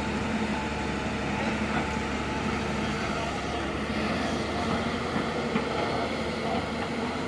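Diesel engines of heavy machinery running steadily at an even, unchanging drone.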